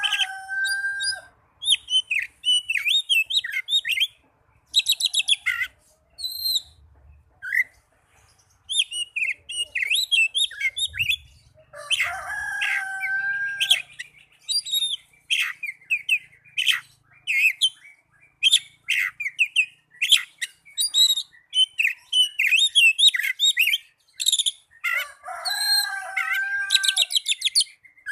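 Oriental magpie-robin (kacer) singing a fast, varied run of high whistles, chirps and trills with hardly a pause. Three lower, drawn-out calls come in roughly every twelve seconds.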